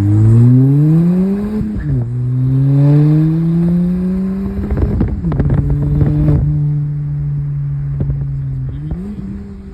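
Ford Fiesta ST's turbocharged 1.6-litre four-cylinder sounding through a stainless 2J Racing side-exit cat-back exhaust while being driven. The revs climb, drop sharply at a gear change about two seconds in, and climb again more slowly. Around five seconds in the driver lifts off, with a cluster of sharp exhaust crackles, and the engine settles to a steady cruise, dipping and rising briefly near the end.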